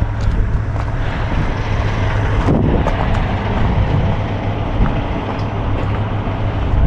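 Truck engine idling with a steady low hum, with scattered clicks and a louder rattle about two and a half seconds in.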